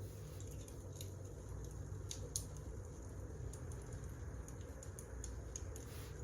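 Wood fire crackling: a steady low rumble with scattered, irregular small pops, one sharper pop a little over two seconds in.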